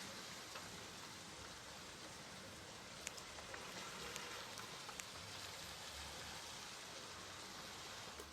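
Steady rainfall, with a few individual drops ticking sharply out of the hiss.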